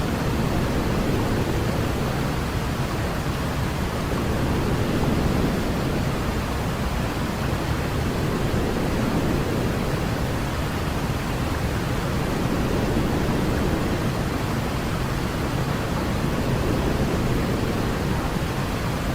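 Steady pink-style noise for lulling a baby to sleep, weighted toward the low end like a soft rushing hiss, with slight slow swells in level.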